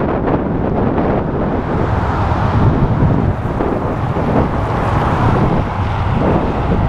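Wind buffeting the microphone while cycling, a steady loud rushing noise, with road traffic underneath.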